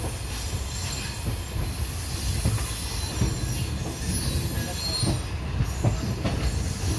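Passenger train running on the rails, heard from an open coach door: a steady low rumble of the coaches with irregular clacks of the wheels over rail joints and points.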